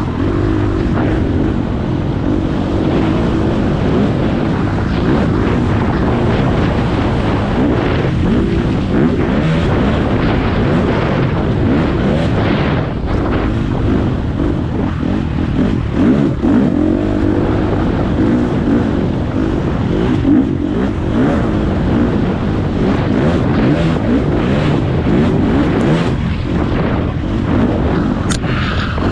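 Four-stroke single-cylinder dirt bike engine running steadily under way on a trail, close to the camera, with scattered short knocks from the rough ground.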